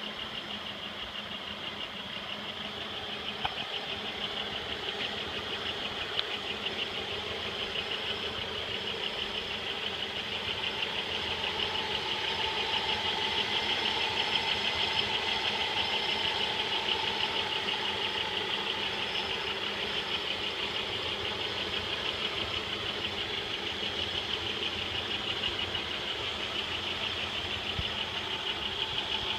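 1995 Pontiac Bonneville's 3.8-litre 3800 Series II V6 running with a fast, even, high-pitched rhythmic noise over the engine sound, somewhat louder in the middle. The noise is unchanged with the serpentine belt removed, so it is not belt noise, and it came on along with a loss of power.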